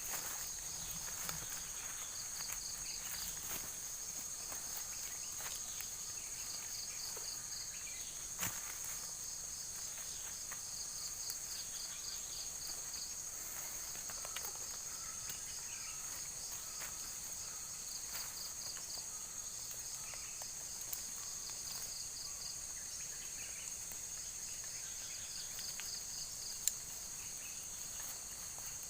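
Insects chirping: a steady high drone with repeating groups of pulsed trills, and a few scattered clicks and knocks.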